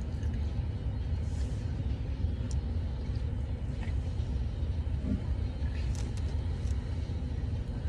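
Steady low rumble of a car's cabin with the engine running, with a few faint small clicks of food being handled and eaten, the sharpest about six seconds in.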